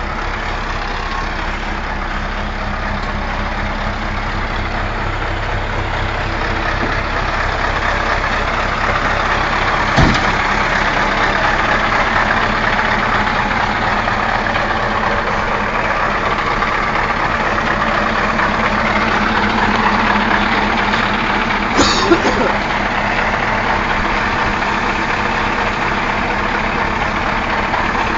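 Scania V8 diesel truck engine running steadily, growing somewhat louder over the first ten seconds. A single sharp click about ten seconds in, and a short higher-pitched sound about 22 seconds in.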